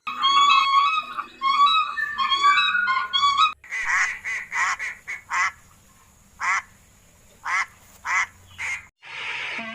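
Waterfowl calling in two cut-together clips. First comes a run of repeated pitched calls that dip at the end. Then, after an abrupt cut, about ten short harsh calls follow, quick at first and then about a second apart.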